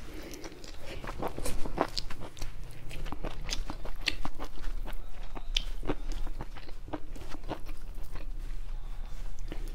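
Close-miked mouth sounds of a person eating rice and mushroom curry with greens: chewing with irregular wet smacks and clicks throughout, over a low steady hum.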